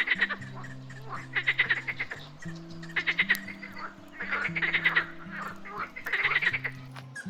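Pond frogs croaking in rapid rattling bouts, about five of them, one every second and a half or so, over soft background music with held low notes.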